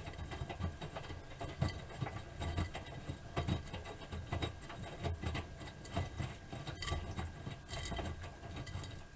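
Miele Softtronic W3923 front-loading washing machine in its wash phase: the drum turns and the wet laundry tumbles and sloshes, giving an uneven run of low thuds with light splashing and clicking over them.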